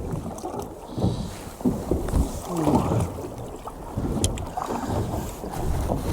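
Wind buffeting the microphone on a small boat at sea, in irregular low rumbles, with a sharp click about four seconds in.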